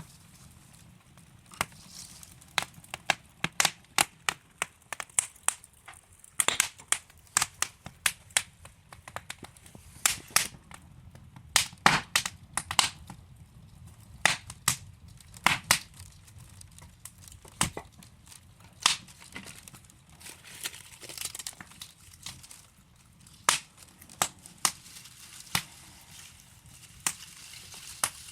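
Wood fire burning in a fireplace: logs crackling and popping in irregular sharp snaps over a low, steady hiss of the flames.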